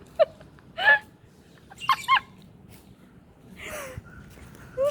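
A few short, sharp bird calls, separated by gaps, with a rougher squawk a little before the end.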